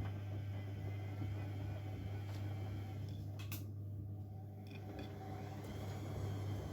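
Bosch Maxx WFL 248Y front-loading washing machine running its wash, with a steady low hum and tumbling noise. A sharp click comes about halfway through, followed by a brief lull before the running sound picks up again.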